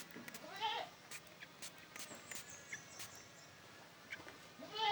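Yellow-vented bulbul calls: a short rising call under a second in and a louder call near the end, with faint scattered ticks between.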